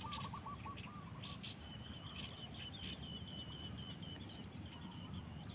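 Faint birdsong: a few short high chirps, then a quick high trill running for about three seconds, over a low steady outdoor rumble.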